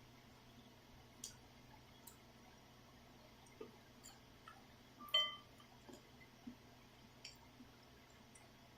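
Quiet eating sounds: scattered small clicks of a utensil against a bowl, with one brief ringing clink about five seconds in, over a low steady hum.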